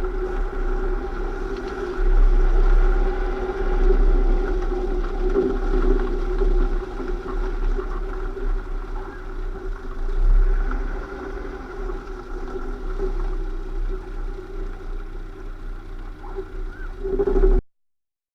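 Lada Niva under way: a steady whine from the drivetrain sits over a deep rumble and rises and falls in strength. The whine is the abnormal transmission noise being recorded. The sound cuts off suddenly near the end.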